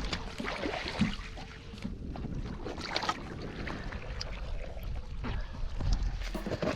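Jet ski out on the water: wind buffeting the microphone over a low rumble and irregular water noise.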